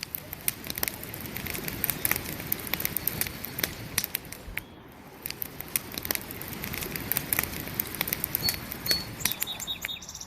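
Wood campfire burning, crackling with many sharp pops over a steady hiss, with a brief lull about halfway through. A few short high chirps sound near the end.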